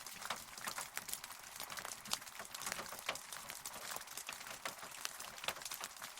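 Steady rain, a constant hiss with many separate drops ticking sharply and irregularly on a near surface.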